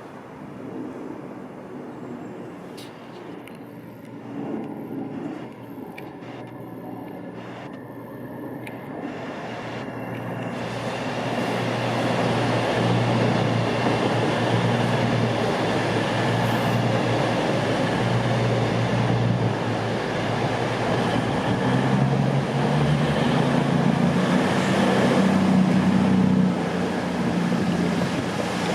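A CrossCountry Voyager diesel multiple unit approaching and running through the station. It grows louder from about ten seconds in and stays loud, with a low engine tone coming up strongly near the end.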